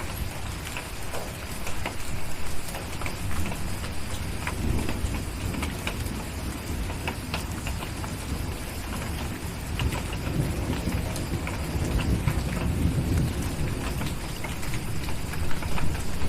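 Steady rain with scattered crackles of a wood fire, and low rolling thunder that swells twice, about a third of the way in and again past the middle.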